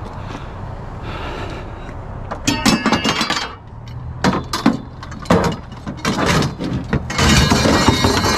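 A vehicle's engine running low and steady while a load of loose scrap metal rattles and clinks in bursts, loudest near the end.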